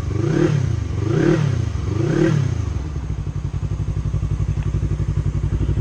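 Yamaha YZF-R3 parallel-twin engine through an Akrapovic full-system exhaust, blipped three quick times about a second apart, then settling to a steady idle.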